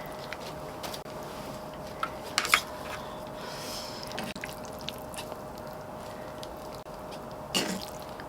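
Eating sounds: a few scattered small clicks and wet mouth sounds as a lettuce-wrapped bite is eaten, over a faint steady hum.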